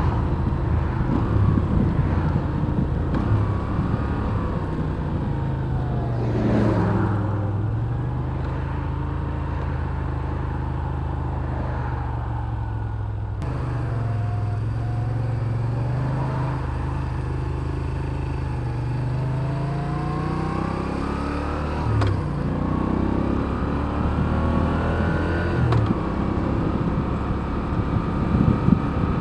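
Moto Guzzi V7 Special's air-cooled transverse V-twin under way, its engine pitch falling and rising several times as the bike slows, speeds up and changes gear. A brief whoosh rises and falls about six or seven seconds in.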